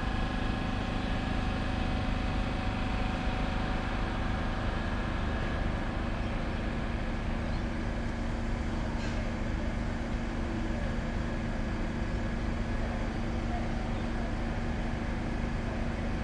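Steady mechanical drone of a train, a constant hum over an even rumble that does not change.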